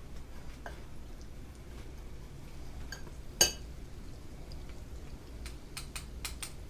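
Metal kitchen tongs clinking against a pot or pan: one sharp clink about three and a half seconds in, then a run of lighter clicks near the end, over a low steady hum.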